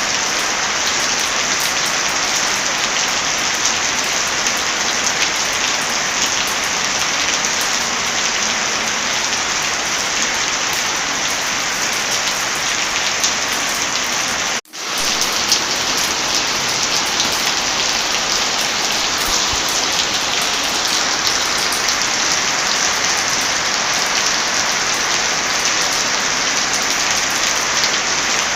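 Steady heavy rain, an even hiss without a break except for a sudden dropout of a fraction of a second about halfway through, where the recording loop is joined.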